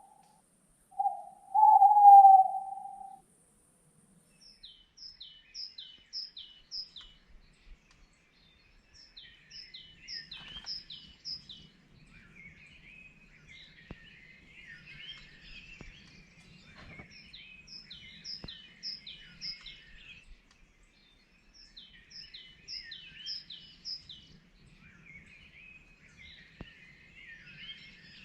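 A low hooting call, like an owl's, about a second in, then songbirds singing: repeated short phrases of about five quick high descending notes, with softer chattering calls between them.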